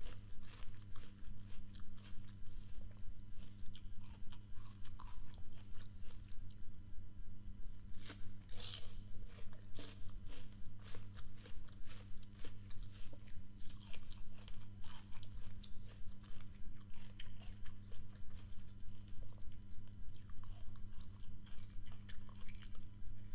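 Close-miked chewing of crisp raw apple, wet crunches coming about three times a second, with a louder crunch about eight seconds in and a fresh bite near the end. A steady low hum sits underneath.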